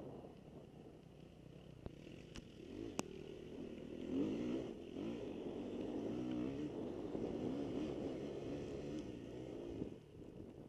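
Motocross bike engine revving, its pitch rising and falling as the throttle opens and closes, louder from about four seconds in and dropping away near the end. Two sharp clicks a couple of seconds in.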